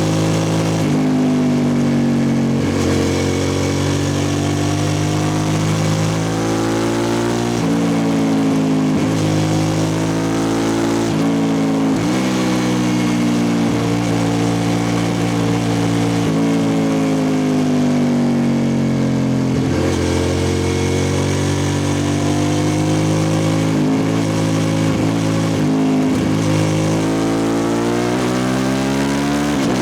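2003 Suzuki SV650S's V-twin engine through a Lextek exhaust with no dB killer, its revs repeatedly rising and falling, with a long, slow drop in pitch midway and a climb near the end.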